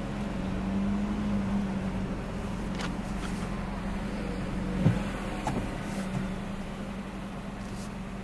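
Car engine idling with a steady low hum, heard from inside the cabin, with a few light clicks and one sharper knock about five seconds in.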